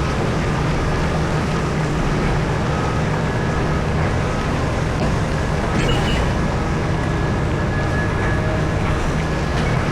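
Heavy mining machinery at work, a Komatsu PC4000 excavator loading haul trucks, running steadily with a deep drone and a short sharper clatter about six seconds in.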